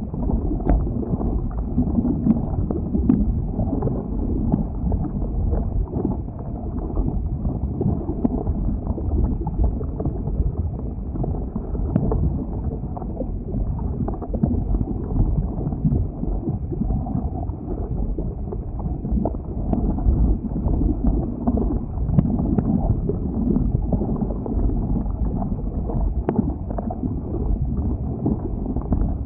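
Lava flow: a steady low rumble with a few faint sharp crackles scattered through it.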